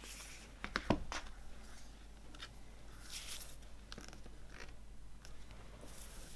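Hands handling the packaging of a music box set: a quick cluster of clicks and knocks about a second in, then scattered rustling and scraping of packaging.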